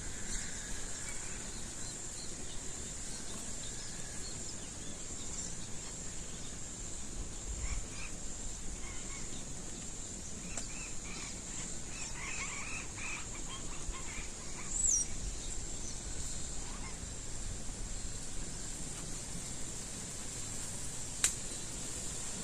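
Birds calling faintly over a steady high-pitched background drone, with a cluster of short calls in the middle and a quick falling chirp just after. A single sharp click comes near the end.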